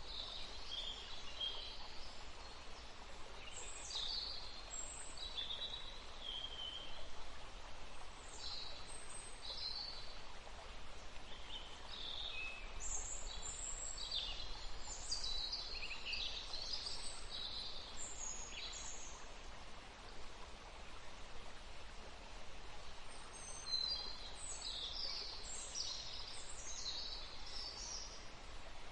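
Songbirds singing short high chirps and trills in busy clusters over the steady rush of a forest stream; the birdsong pauses for a few seconds about two-thirds of the way through.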